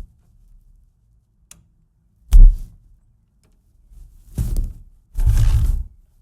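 Motorcycle exhaust rumbling as the engine is revved in short throttle blips: one sharp blip, then two longer ones, with a faint low idle in between.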